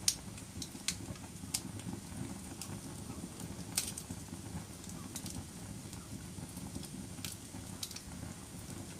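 Wood fire burning in a fireplace: a steady low rustle of flames with sharp crackles and pops of burning wood at irregular intervals, the loudest just at the start and about four seconds in.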